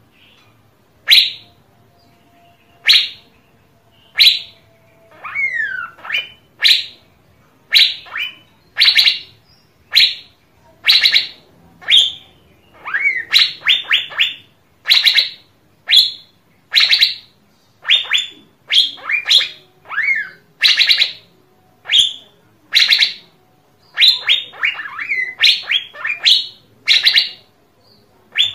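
Asian fairy-bluebird calling: sharp, loud notes repeated about once every one to two seconds, with a few whistled glides. In the second half some calls come as quick runs of several short notes.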